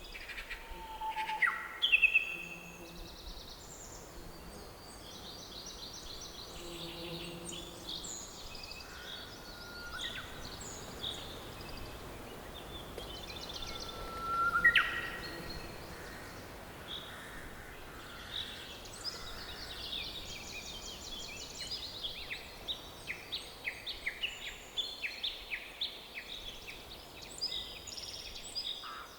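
Several songbirds singing and chirping in a forest: many short chirps and rapid trills, with a couple of louder whistled calls about two seconds in and around the middle, over a faint steady background hiss.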